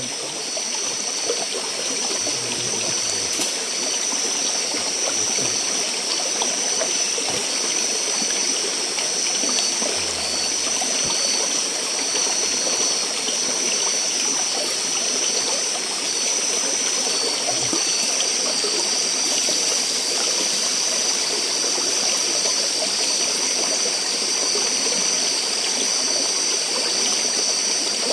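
Steady rush of a flowing forest river or stream, with a constant high-pitched whine running alongside.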